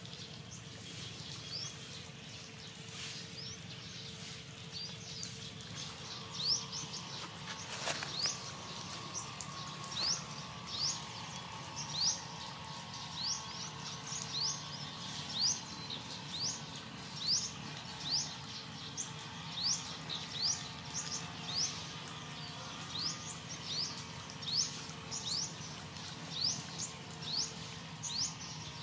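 A bird calling over and over: short, quickly rising chirps, a little more than one a second, over a steady outdoor hiss. A single sharp click sounds about eight seconds in.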